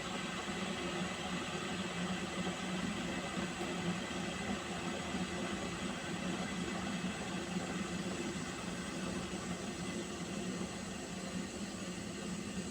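Water heating in a pot on a stove: a steady hiss with a low hum underneath.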